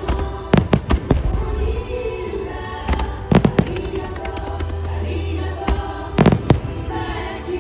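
Aerial fireworks shells bursting in a musical starmine, in clusters of sharp bangs about half a second in, around three and a half seconds and around six seconds. Music plays continuously underneath.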